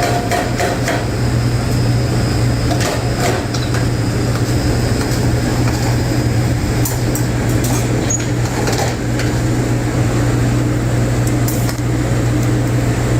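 A steady low mechanical drone with scattered knocks and clanks over it.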